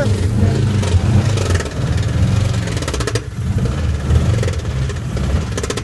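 Engine running steadily with a low, even rumble, with a brief sharp noise about three seconds in.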